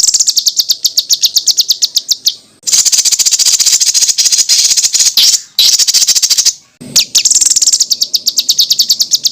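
Songbird giving 'tembakan' song: fast runs of high, sharp repeated notes, about a dozen a second, in four bursts broken by short gaps.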